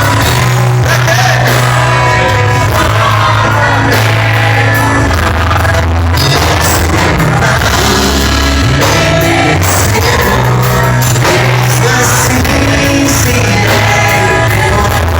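A band playing loud music with singing over a strong, changing bass line.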